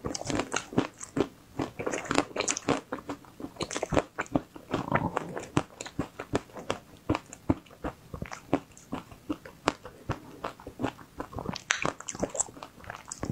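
Biting and chewing of a frozen ice cream bar with a crunchy coating: many sharp, irregular crunches and wet mouth clicks.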